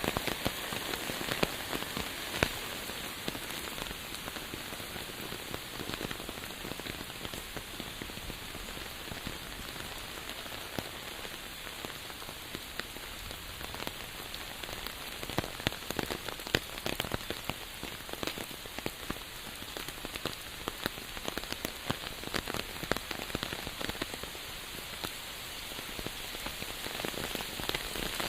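Steady rain, with many individual drops landing sharply and close against the even hiss of the downpour.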